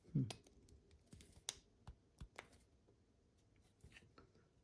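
Faint, scattered clicks and scrapes of a plastic car key fob shell part being slid into the new key body by hand, a part that is sticking and hard to slide.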